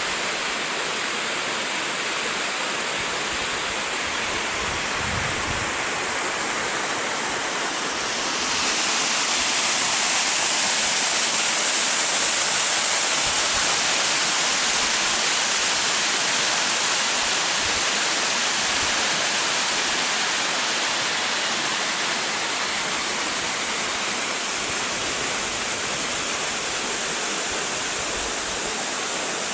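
Waterfall pouring into its plunge pool: a steady rush of falling water that swells louder and brighter for a few seconds about a third of the way in, then settles back.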